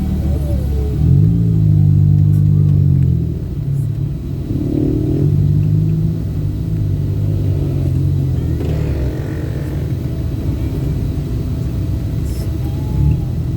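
A car's road and engine rumble heard from inside the cabin while driving, with music playing on the car stereo underneath.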